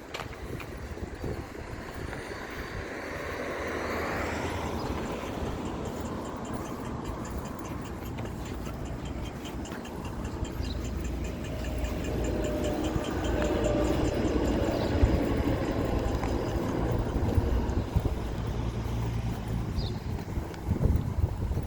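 Road traffic passing: one vehicle goes by about four seconds in, falling in pitch as it passes, and a louder, heavier-sounding vehicle swells up and passes around the middle, with wind rumbling on the microphone.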